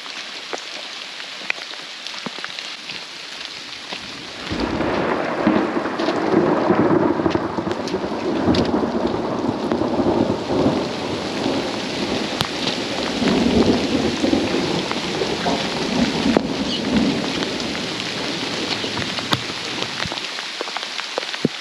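Heavy rain pattering steadily; about four seconds in, a long roll of thunder starts and rumbles on, swelling and waning, for some fifteen seconds before fading near the end.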